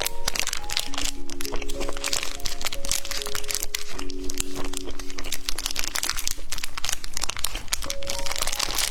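Rapid, close crinkling and crunching of candy and its packaging, over background music with a simple melody of held notes.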